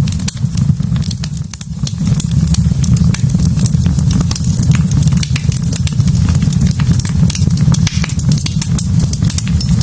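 Wood fire burning in a fireplace, crackling with frequent sharp pops over a steady low rumble of the flames.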